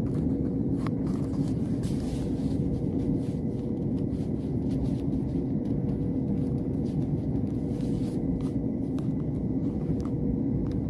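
Electric passenger train running, heard from inside the carriage: a steady low rumble with a faint steady hum and a few light clicks.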